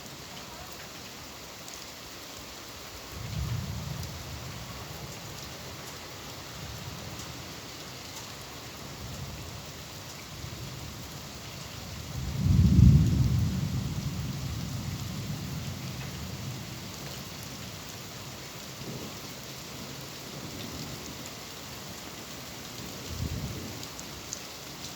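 Steady rain with rolling thunder: a low rumble about three seconds in, a louder, longer one about halfway through, and a fainter one near the end.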